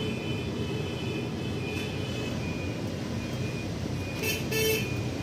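Road traffic: vehicle engines running steadily, with a short horn toot about four seconds in.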